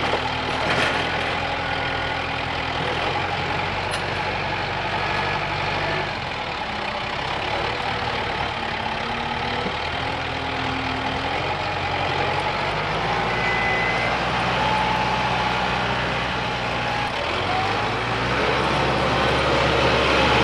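Kubota tractor's diesel engine running steadily, its note shifting a few times and picking up near the end.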